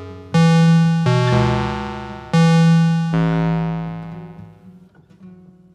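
Sustained keyboard chords: two struck about two seconds apart, each moving to a new chord about a second later, then ringing out and fading away as the song ends.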